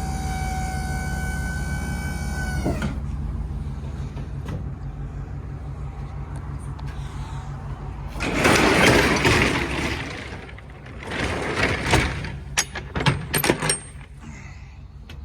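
A steady low hum from a truck, with a whining tone that drops in pitch and cuts off about three seconds in. Later come two spells of loud rattling, then a string of sharp metallic clicks and clanks.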